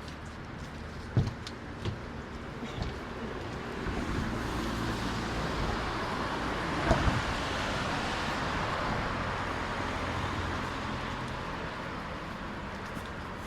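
A car passing by on the street, its engine and tyre noise swelling to a peak about seven seconds in and then fading away. A couple of low knocks sound about a second in.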